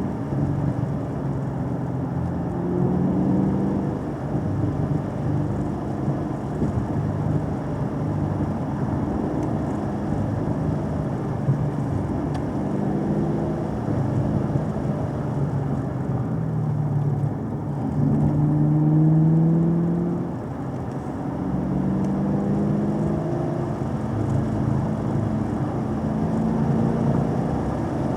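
Engine of a vehicle being driven, heard from on board. Its pitch climbs and drops again and again as it accelerates and changes gear, over steady road noise.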